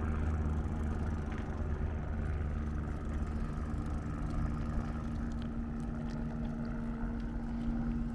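An engine running steadily at a constant speed, a low hum with several steady tones.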